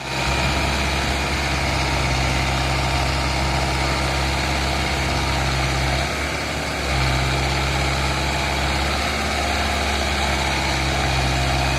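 Mahindra Arjun Novo tractor's diesel engine idling steadily, its note dipping briefly about six seconds in.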